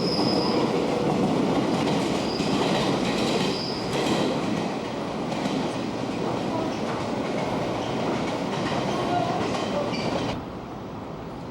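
Chuo Line 201 series electric train running along the platform, its wheels clattering over rail joints with several short high wheel squeals in the first few seconds. The sound drops off abruptly about ten seconds in.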